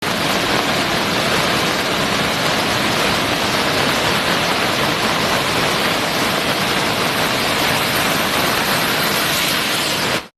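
Loud, steady rushing of water, as of floodwater or a heavy downpour, with no rhythm or pitch. It cuts off suddenly near the end.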